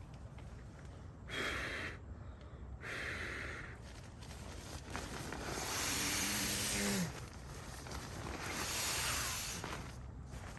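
A person breathing heavily in four long, noisy breaths, the longest ending in a low voiced sigh.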